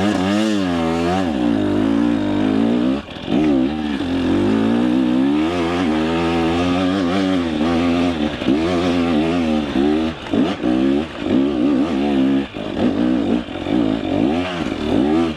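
Two-stroke KTM 300 EXC enduro engine revving hard in repeated rising and falling surges under load on a steep hill climb, with brief throttle drops about three seconds in and several more toward the end.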